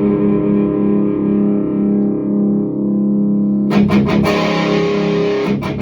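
Distorted electric guitar through a Hiwatt Hi-5 amplifier playing drop-tuned power chords. A held chord rings and slowly fades, then fresh chords are struck about two-thirds of the way in.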